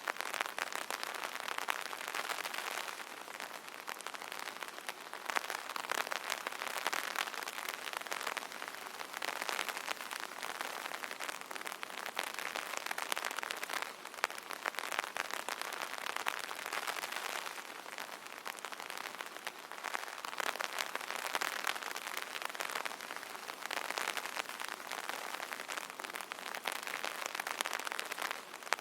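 Rain falling on an umbrella: a dense, steady crackle of many small drop impacts, swelling and easing a little every few seconds.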